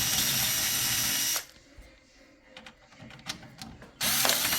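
Electric screwdriver running in short bursts to back out case fan screws. One run cuts off about a second and a half in, a few small clicks and taps follow, and another run starts near the end.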